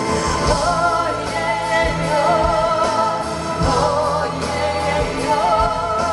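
Music: a sung melody with vibrato over a backing accompaniment with a steady low beat.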